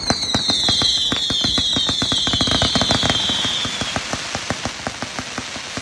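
Ghost Shadow 'Raider Killer' firework cake firing: rapid popping reports, about ten a second. Over the first four seconds a whistling tone runs over the pops, falling slightly in pitch before it dies out.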